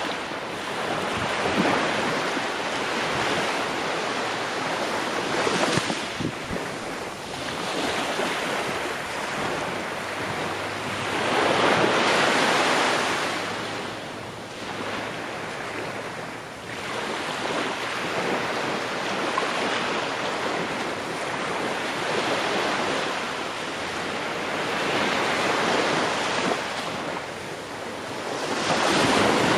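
Ocean waves breaking and washing on the shore, surging in and out every few seconds, with the strongest swell about twelve seconds in and another near the end.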